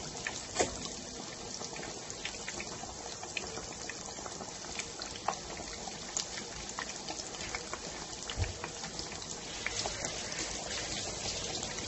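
Breaded pork tonkatsu shallow-frying in hot oil in a pan, sizzling steadily with frequent small pops and crackles.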